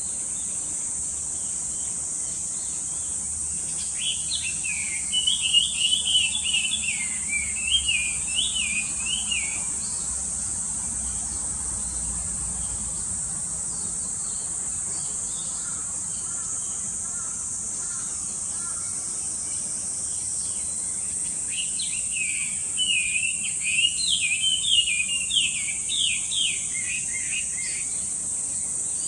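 A bird twittering in two bouts of quick, up-and-down chirps, each lasting about five seconds, over a steady high-pitched insect drone.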